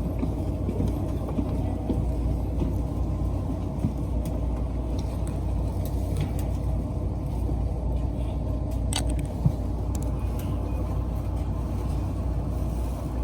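Steady low hum and rumble inside a local train standing at a station, with faint scattered clicks and one sharp click about nine seconds in.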